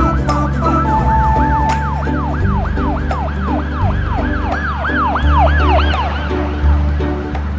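Police siren sweeping up and down in quick repeated wails, a few cycles a second, layered over a music track with a steady bass line. Near the middle a second siren overlaps the first.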